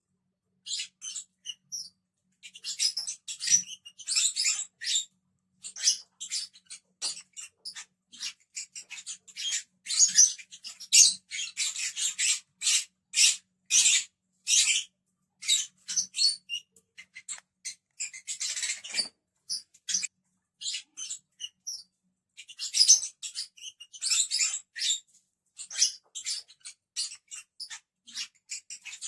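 Lovebirds chirping: many short, high-pitched chirps in quick runs, with brief pauses between.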